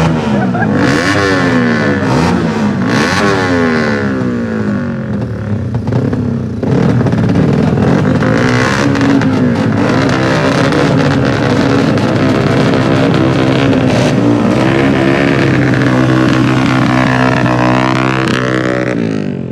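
Racing engines revving hard, several at once, their pitch climbing and falling back repeatedly as they shift up through the gears. The sound drops away abruptly at the very end.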